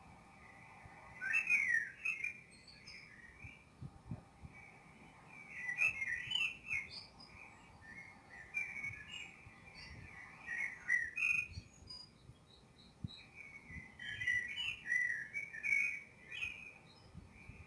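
Small songbirds chirping and twittering in several bursts of quick, high chirps.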